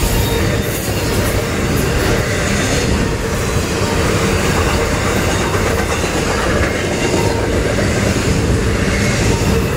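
Intermodal freight train's double-stack well cars and trailer cars rolling past close by: a loud, steady rumble and rattle of steel wheels on the rails.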